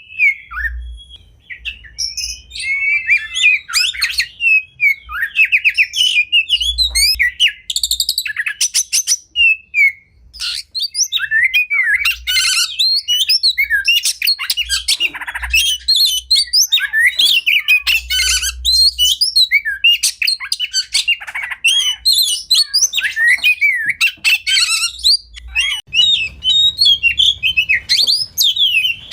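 Oriental magpie-robin (kacer) singing a long, varied song of quick whistled notes, rapid trills and harsh chattering calls, hardly pausing.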